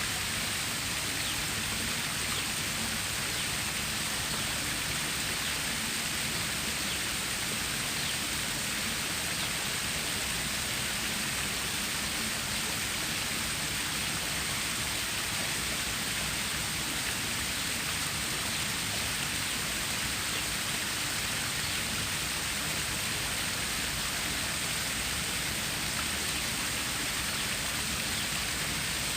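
Flowing water of a stream or small waterfall: a steady, even rush with a bright hiss.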